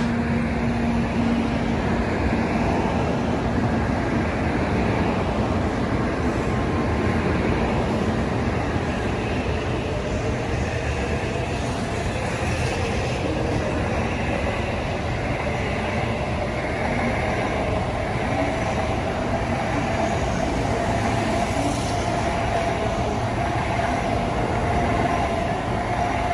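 Tokaido Shinkansen N700A bullet train running along the near track: a steady rumble of wheels and running gear, with a faint whine that slowly rises in pitch in the second half.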